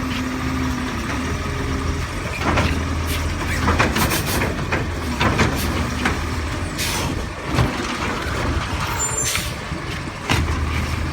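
Autocar garbage truck with a New Way Sidewinder side-loader body: the diesel engine runs steadily while a series of clanks and bangs come through the middle stretch, with short sharp air brake hisses around 7 and 9 seconds in.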